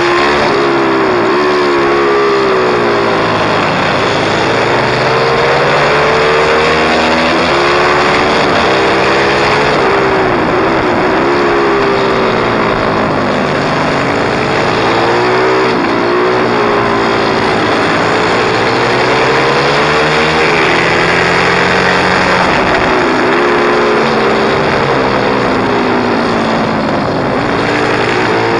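Pit bike's small single-cylinder engine being ridden hard, its pitch rising and falling over and over every few seconds as the throttle is opened and closed.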